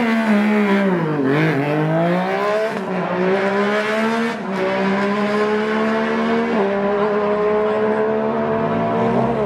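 Sport motorcycle engine on a drag bike accelerating. Its note dips briefly at first, then climbs steadily, with small breaks about every two seconds.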